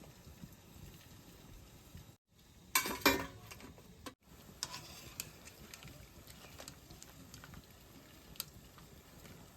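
Cooking-pot sounds: a spoon stirring and scraping in a pot, with scattered light clicks of utensils and one brief louder clatter about three seconds in. The sound drops out briefly twice.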